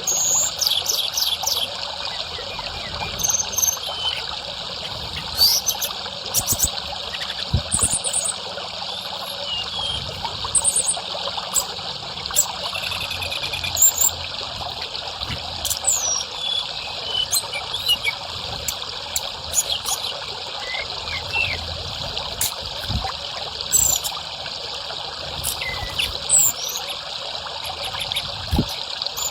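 Running water trickling steadily, with many short, high bird chirps and quick whistled notes scattered through it, tledekan-type songbird calls used to stimulate caged birds to sing.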